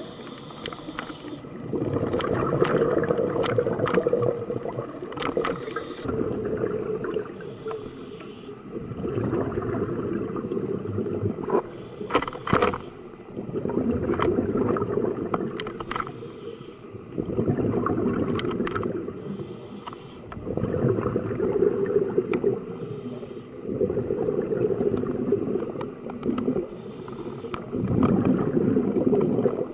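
Scuba diver breathing through a regulator underwater: a short hiss on each inhale, then a longer rush of exhaled bubbles, repeating about every three to four seconds, with a few sharp clicks.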